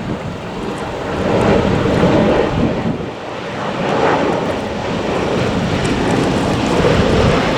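Distant jet airliner engine noise, a steady rushing rumble that swells and eases, mixed with wind on the microphone.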